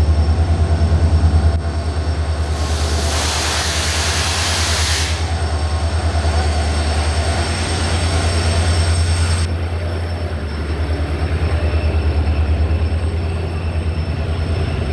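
Passenger express train departing: a loud, steady low rumble with a fine even pulsing, and a burst of hissing about two and a half seconds in that lasts a couple of seconds.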